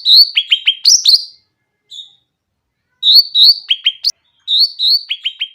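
Black-headed bulbul (cucak ranting) singing: three loud phrases of clear whistled notes. Each phrase has two rising notes, a quick run of three falling notes, then higher notes, with a single short note between the first two phrases.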